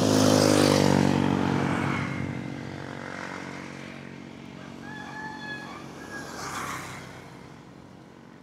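A motor vehicle passes close by, its engine loudest in the first second and then fading away. A rooster crows faintly about five seconds in.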